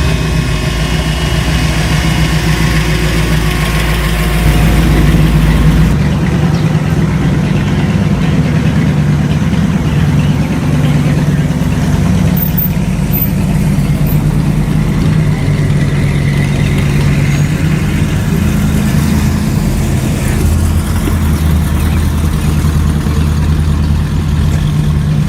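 Car engine running at idle with a steady low rumble; the pitch of the rumble shifts slightly about six seconds in.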